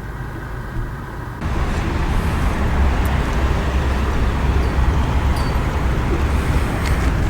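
The Skoda Octavia's 1.6-litre engine starting about a second and a half in, then running steadily with a deep, even rumble.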